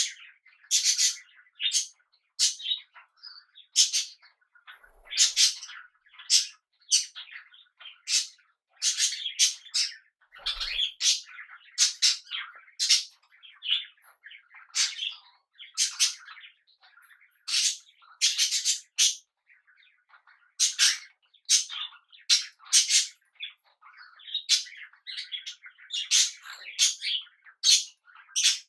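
Pet cockatiels and budgies calling: short, loud calls repeated about once or twice a second, with softer chattering between them.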